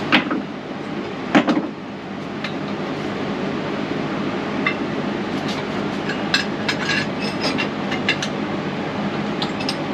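Two hard metal impacts in the first second and a half, then scattered lighter metallic clinks over a steady background noise: a hammer striking a test-welded piece of steel truck frame rail to try to break the weld.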